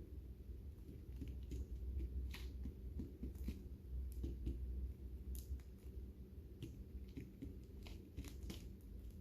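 Lovebirds cracking and nibbling seed: an irregular run of sharp little clicks and crunches, over a low steady hum.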